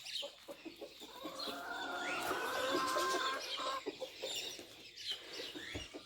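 Domestic hens calling, with one long drawn-out call starting about a second in and lasting a couple of seconds among shorter calls.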